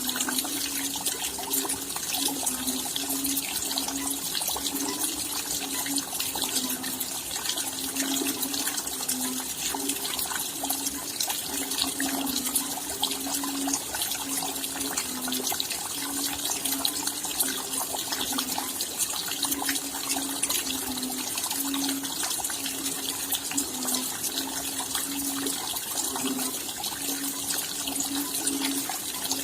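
Steady rain falling: a dense, even hiss made of many small drop ticks, with a wavering low hum underneath that keeps on without a break.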